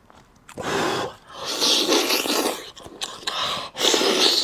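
Close-miked loud slurping while eating, in four long noisy pulls.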